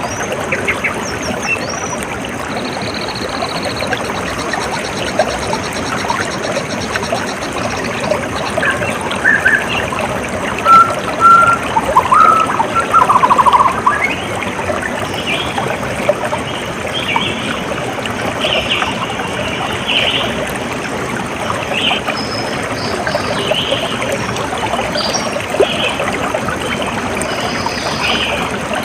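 Running water of a stream or trickle, with birds chirping over it; a cluster of louder chirps comes about ten to fourteen seconds in, then scattered short high calls.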